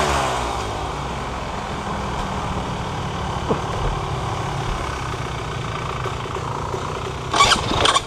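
A vehicle engine idling steadily after a rev falls away right at the start, with a short, louder noisy burst near the end.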